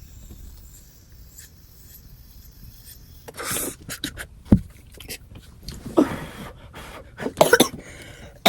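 A person exhaling hard and spluttering after taking a hit, with several breathy bursts about three, six and seven and a half seconds in, and a single low thump near the middle.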